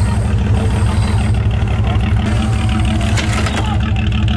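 Off-road 4x4's engine running steadily at idle with an even low throb, and a few clicks about three seconds in.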